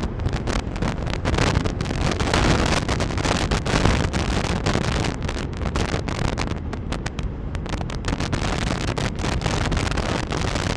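Wind rushing and buffeting on the microphone of a moving KTM 390 Enduro R dual-sport motorcycle, with the bike's single-cylinder engine running underneath at road speed.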